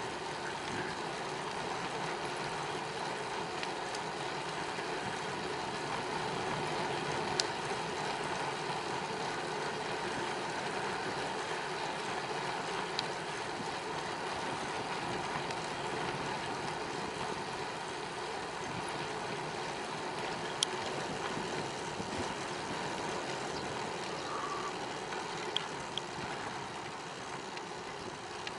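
Steady rushing noise of a bicycle ride: wind and tyre noise at speed, with a few sharp ticks now and then.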